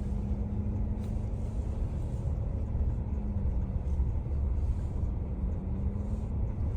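Steady low rumble of a car driving slowly, with engine hum and road noise heard from inside the cabin.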